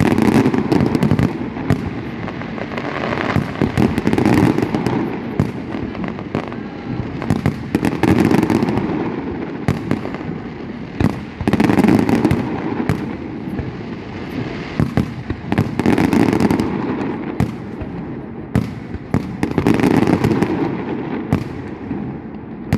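Fireworks display going off nonstop: a dense stream of bangs and crackling that swells into louder volleys about every four seconds.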